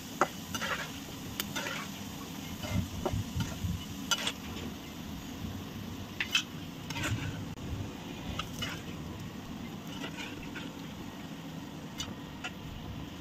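Roasted gram frying in hot oil in a metal kadai, with a steady low sizzle. Scattered clicks and scrapes come from a perforated metal skimmer stirring the gram and lifting it out of the pan.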